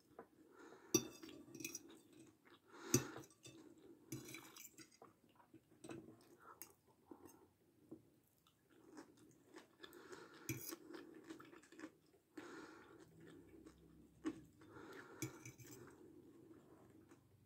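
Chewing and crunching of a mouthful of chicken stroganoff with rice and crisp shoestring potato sticks, picked up close by a clip-on microphone. A few sharp clinks of a metal fork against the glass plate, the loudest about a second in and about three seconds in, with another about ten seconds in.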